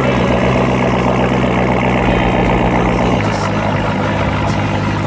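2008 Corvette Z06's 7.0-litre LS7 V8 running at low idle as the car creeps in reverse down a trailer's ramps. The engine note steps down slightly about three seconds in.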